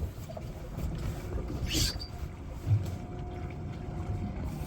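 Steady low rumble of a boat out on the river, with a short hiss a little before two seconds in and a dull knock soon after.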